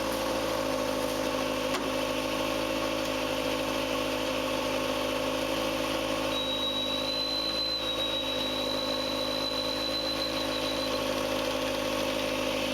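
Homebuilt tractor's engine running steadily at idle. About six seconds in, a thin high whine starts and holds for about four to five seconds: the hydraulics, driven by a Chrysler car power steering pump, lifting the three-point hitch from its lowest to its highest position.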